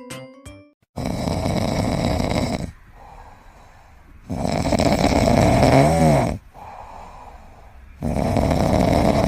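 Loud snoring: three long noisy breaths a few seconds apart with quieter breaths between them, the middle one ending in a wavering squeak. A few piano notes stop just before it starts.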